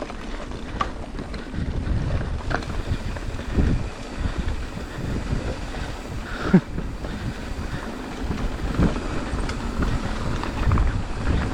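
Mountain bike rolling down a dirt trail, recorded on a bike- or rider-mounted camera: wind rumbles across the microphone over tyre noise and scattered rattles and knocks from the bike, with one sharper knock about six and a half seconds in.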